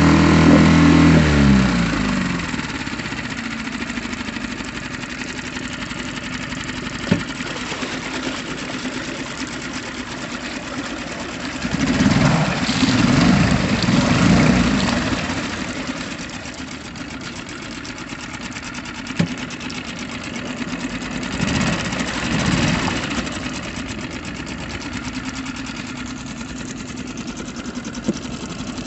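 Honda 5 hp four-stroke outboard motor running. Its revs drop to a steady idle in the first two seconds, then it is revved up briefly twice, about twelve and twenty-two seconds in, with a few sharp clicks between.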